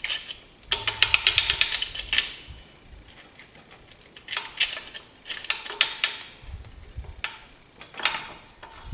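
Hand tools and engine parts clicking and clinking metal on metal as bearing caps are worked off a small-block Chevy 350. The sound comes in three bursts of rapid sharp clicks, the first about a second in and the longest.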